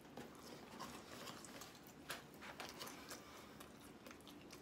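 Faint chewing and lip-smacking of someone eating pizza: scattered soft clicks and smacks, one sharper click about two seconds in.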